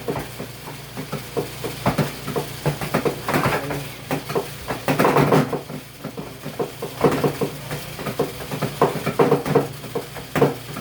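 Irregular clicks and knocks from the plastic parts of a portable washing machine being handled, with denser bursts of rattling a few times.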